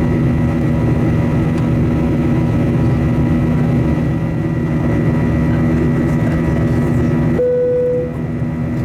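Boeing 737-800 cabin noise in flight: the steady drone of the CFM56 engines and airflow, with a constant hum. Near the end the sound changes abruptly and a single short tone sounds briefly.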